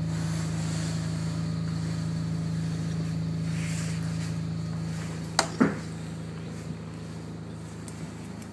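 An engine runs steadily with a low, even hum. About five and a half seconds in there are two sharp clicks in quick succession, and the hum then drops a little.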